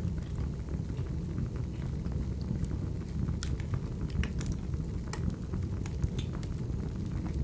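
Recorded wood fire burning: a steady low rumble with scattered sharp crackles and pops, several in quick succession about halfway through.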